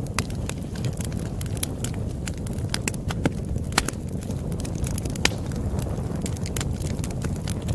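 Wood campfire burning: a steady low rumble of flames with many sharp, irregular crackles and pops.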